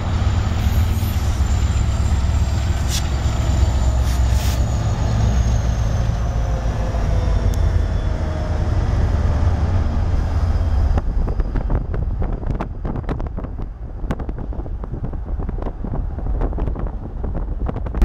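Union Pacific diesel-hauled freight train passing close by: a heavy, steady low rumble with a faint falling whine. About eleven seconds in the sound changes abruptly to a lighter rumble full of short, irregular clicks.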